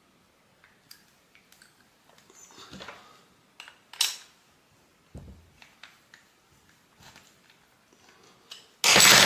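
Small metal brake-caliper parts clicking and knocking against each other as they are handled and fitted together, with a sharp click about four seconds in and a dull thud just after. Near the end comes a loud rough scraping rush of about a second.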